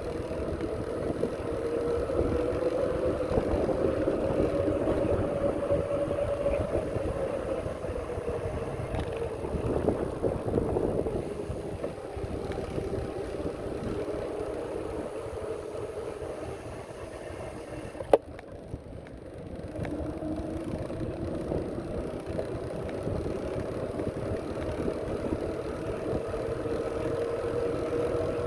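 Riding noise from a moving bicycle: wind rumbling on the microphone with a steady hum that drifts slowly up and down in pitch. A single sharp click comes about two-thirds of the way through, after which the sound briefly drops before picking up again.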